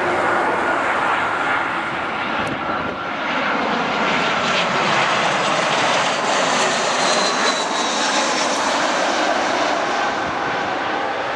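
Airbus A319's IAE V2500 turbofan engines on a landing approach: a loud, steady jet rumble with a faint high whine.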